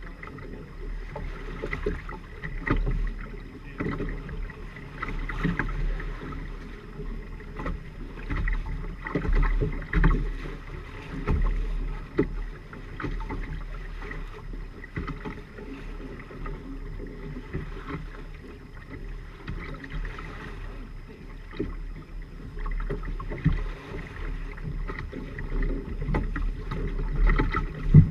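A Firefly 26 trimaran under sail: water rushing and splashing against the hulls, with irregular sharp knocks and a deep wind rumble on the microphone.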